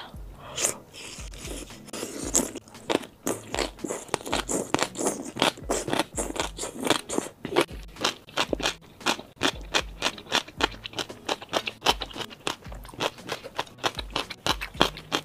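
Close-up crunchy chewing of gongcai, crisp celtuce stems coated in red chili oil, a quick run of crunches several times a second.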